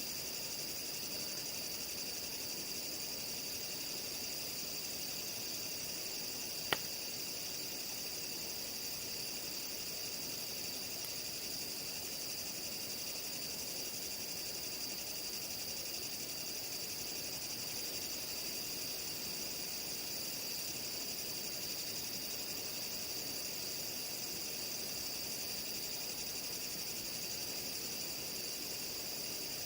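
Steady high-pitched chorus of night insects, unbroken throughout, with a single sharp click about seven seconds in.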